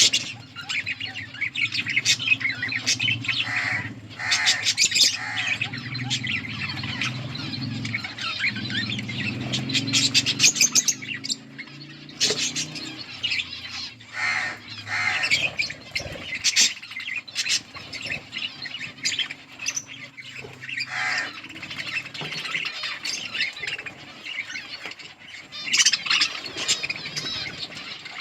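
A colony of budgerigars chattering and squawking, with many warbling calls overlapping throughout.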